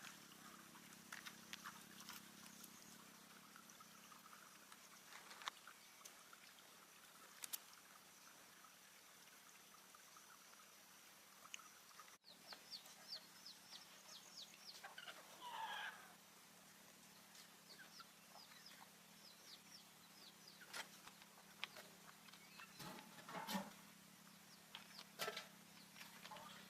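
Chickens clucking faintly over quiet rural ambience, with scattered short clicks and a faint steady hum.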